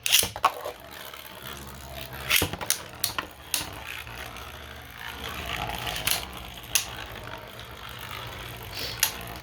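Two 3D-printed Beyblade spinning tops launched into a stadium and whirring around it, clacking against each other in sharp hits every second or so.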